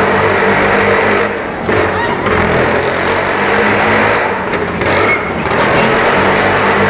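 Jawa motorcycle engines running and revving, the engine note dipping briefly a few times.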